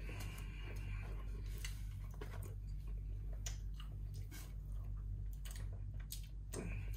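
Close-miked chewing and wet mouth sounds of a person eating peri-peri chicken, with scattered sharp smacking clicks over a steady low hum.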